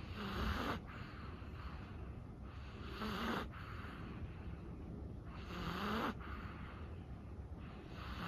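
Sleeping chihuahua snoring: four noisy breaths, one about every two and a half to three seconds, each ending in a short low rising note.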